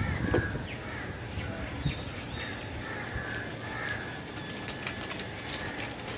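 Crows cawing repeatedly, a call every second or so, over steady low background noise.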